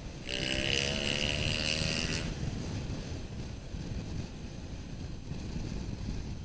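Motorcycle riding through city traffic: steady engine and wind noise, broken near the start by a loud pitched vehicle sound that lasts about two seconds.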